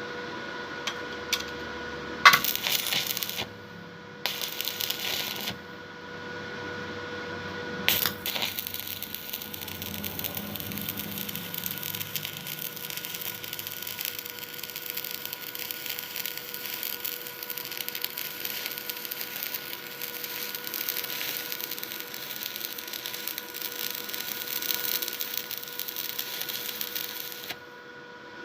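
Stick arc welding. The electrode is struck twice in short spurts, then a long continuous weld runs with a steady crackle and sizzle until just before the end, over a steady hum.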